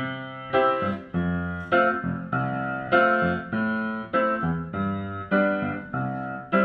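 Piano introduction to a song: chords struck at a steady pace, about one every half second or so, each fading before the next.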